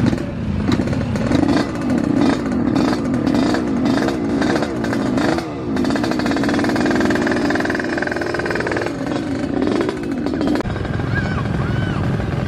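An engine running with a wavering, uneven pitch, mixed with irregular short knocks or clatter.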